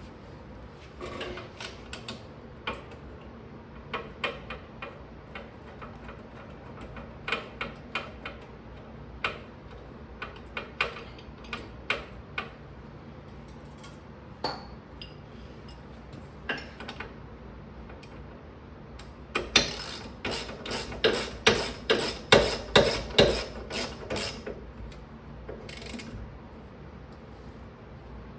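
Hand ratchet wrench clicking and metal tool clinks while working on the bolts of a rear wheel hub bearing. Scattered single clicks at first, then a quick steady run of loud clicks for about five seconds, two-thirds of the way in.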